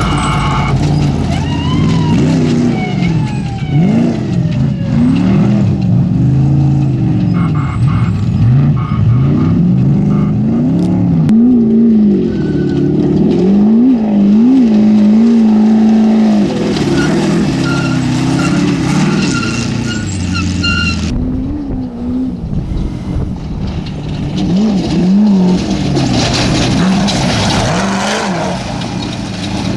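Off-road race vehicle engines revving hard, the pitch rising and falling again and again with the throttle. The sound changes abruptly about two-thirds of the way through.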